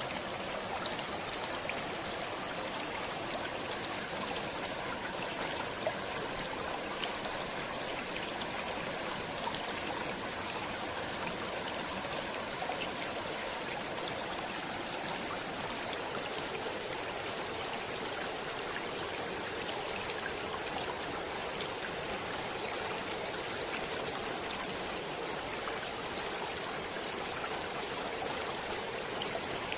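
A stream of water flowing steadily: an even, continuous rush with faint small splashes here and there.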